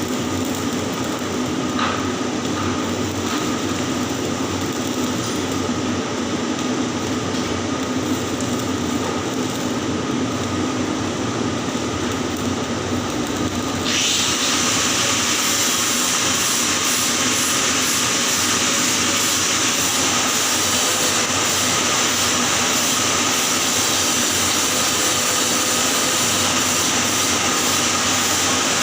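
Electric arc welding on pipe: a continuous hiss of the arc. About halfway through it steps up, louder and hissier.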